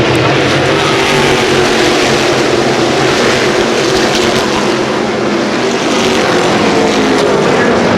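NASCAR Whelen Modified race cars' V8 engines running around the short-track oval, a loud, continuous drone of the pack with no break.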